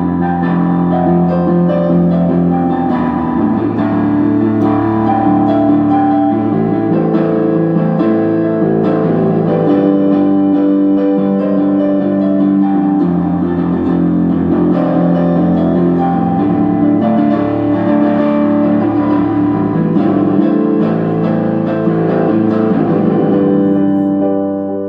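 An electronic keyboard played with a piano-like voice: held chords under a changing melody, with no pauses.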